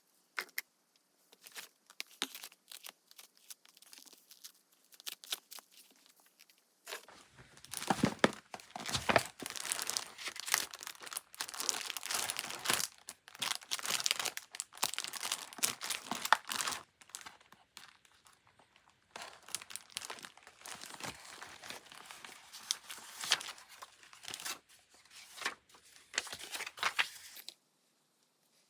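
Paper and decorating materials being handled at a desk: light taps and clicks at first, then a long stretch of crinkling, rustling and tearing, with a short pause partway through.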